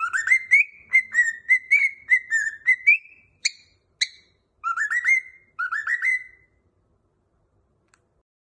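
Cockatiel whistling a song: a quick run of short whistled notes for about three seconds, two sharp chirps, then two shorter whistled phrases, falling silent about two-thirds of the way through.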